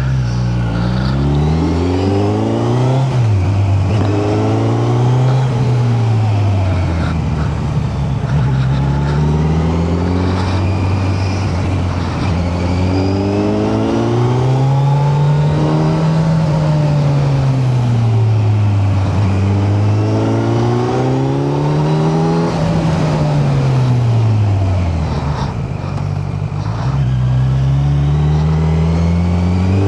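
Kawasaki Z900's inline-four engine under a rider, its pitch climbing and dropping again and again every few seconds as the bike accelerates and rolls off the throttle.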